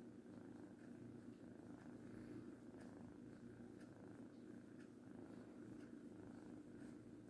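A kitten purring, faint and steady.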